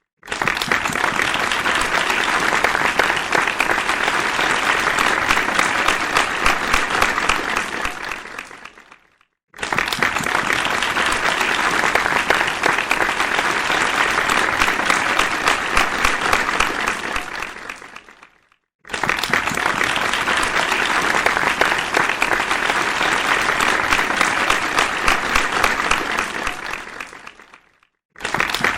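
Crowd applauding: dense, steady clapping that fades away to silence about every nine seconds and starts again abruptly at full strength, three times over.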